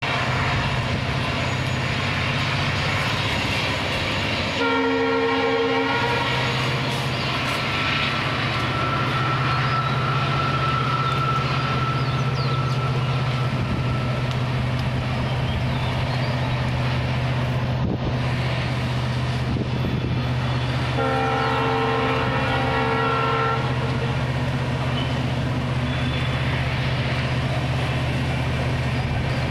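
Passenger train running past with a steady low rumble. Its locomotive horn sounds twice: a short blast about five seconds in and a longer one a little after twenty seconds.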